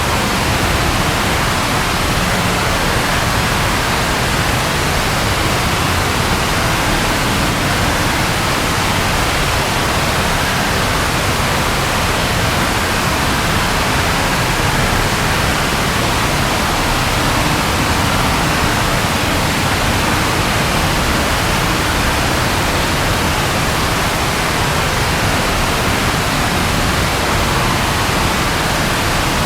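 Steady rain falling, an even unbroken hiss with no thunderclap.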